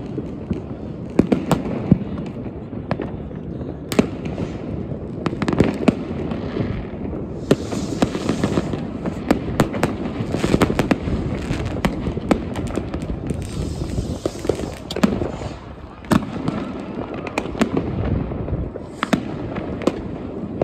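New Year's Eve fireworks: a continual barrage of irregular bangs and pops from rockets, firecrackers and firework batteries, with two longer stretches of dense crackling, about eight and fourteen seconds in.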